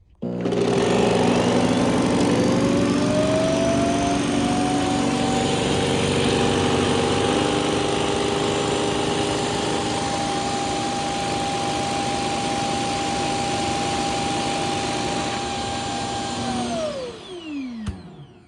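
Robot vacuum's self-emptying dock running its suction motor to empty the robot's dustbin. It starts abruptly, its whine rises in pitch over the first couple of seconds and runs steady, then the whine falls as the motor winds down near the end.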